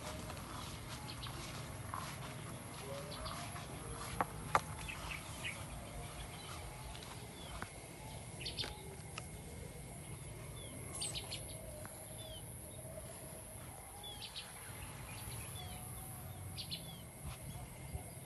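Small birds chirping: short, high, curved calls scattered through, several in quick clusters, over a steady low background rumble.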